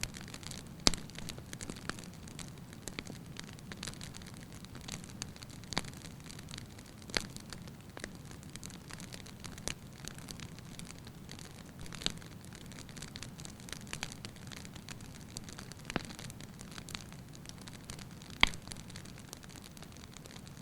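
Wood fire crackling: a steady low hiss of burning logs broken by frequent sharp pops and snaps, the loudest about a second in and near the end.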